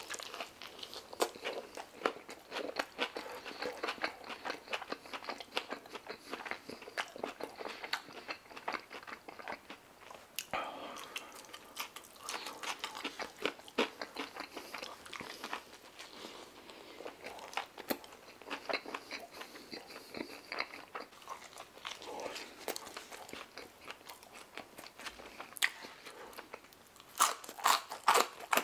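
Close-miked chewing of a mouthful of wrap, a dense run of wet mouth clicks and smacking. A few louder bites come near the end as fries go in.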